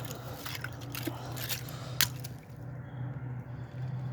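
Crunching and clicking of a piece of ice being handled and broken, with one sharp crack about two seconds in, over a steady low hum.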